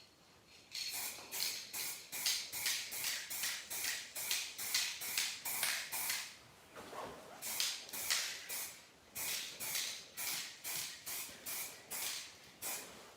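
Aerosol spray can of paint being sprayed in short hissing bursts, about three a second, with a pause of a second or so near the middle: light passes in thin coats.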